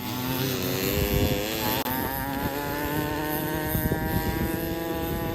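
Kawasaki KMX 125 two-stroke dirt bike engine accelerating, its pitch rising over the first couple of seconds, then holding a steady high note, with rough rumble underneath.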